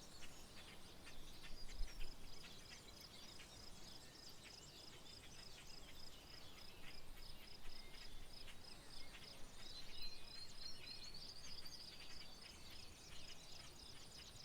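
Faint outdoor chorus of wild birds chirping and calling, with a few gliding calls a little past the middle. Under them runs a steady high-pitched pulse repeating a couple of times a second.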